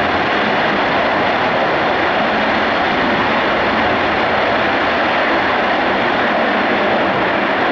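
Tu-134UBL jet aircraft's two Soloviev D-30 turbofans running, a steady, loud rushing noise with no change in pitch.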